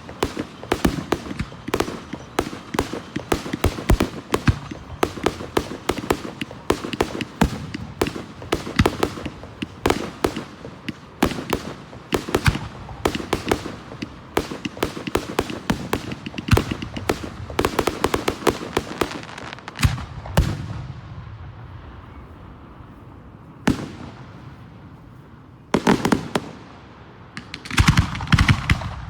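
Aerial fireworks display: a rapid barrage of bangs and crackling for about twenty seconds, then the echoes die away, broken by a single bang and two more short volleys near the end.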